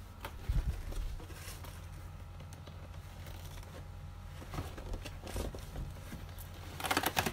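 Rustling and crinkling of something being handled, with short clicks and a denser burst near the end, over a steady low hum.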